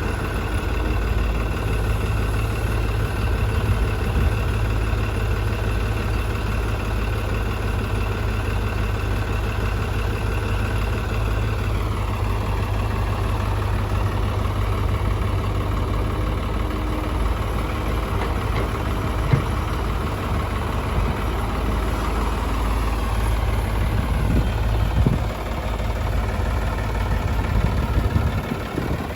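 Heavy diesel engine running steadily. Its pitch drops about twelve seconds in and climbs again near the end as the revs change.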